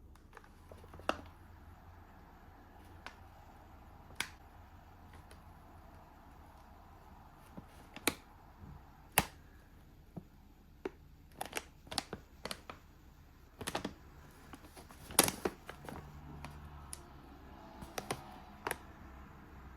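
Irregular sharp clicks and taps, scattered singly at first and more bunched in the second half, the loudest about fifteen seconds in, over a faint low hum.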